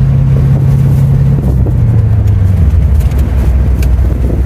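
1990 Corvette's V8 engine running loudly while driving. Its pitch drops in two steps through the middle as the revs fall.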